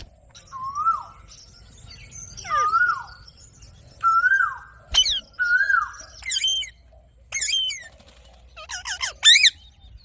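Indian ringneck parakeet calling: a series of whistled notes that each rise and then fall, followed by quicker, higher chirps and squawks, the loudest near the end.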